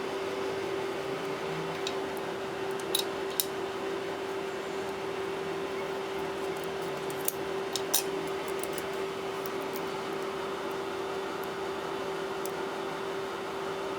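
Steady electrical hum with a few small, sharp clicks about three seconds in and again around eight seconds in, typical of tools and small parts being handled while a tablet is taken apart.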